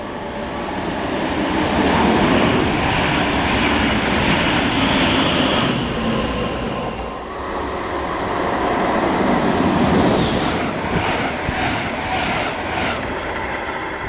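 A train passing at speed on main-line track, its wheels and rolling stock running loudly over the rails. The sound swells twice, with a rhythmic clatter of wheels over the rails near the end.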